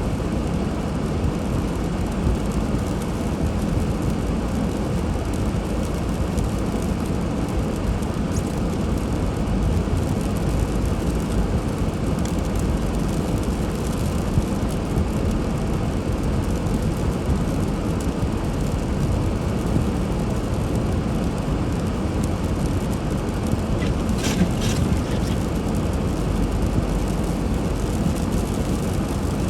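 Steady low rumble of a car being driven, with engine and tyre noise. A few faint clicks come near the end.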